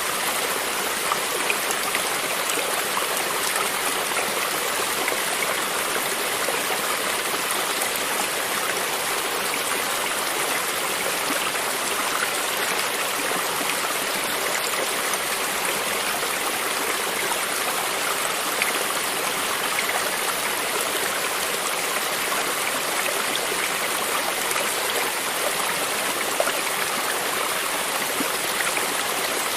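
Creek water running steadily over stones, an even rushing with small splashes and trickles.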